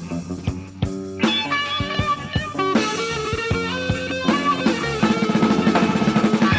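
Hard rock band playing an instrumental passage: a guitar lead holds long, wavering notes over bass and drums, with fast repeated notes coming in near the end.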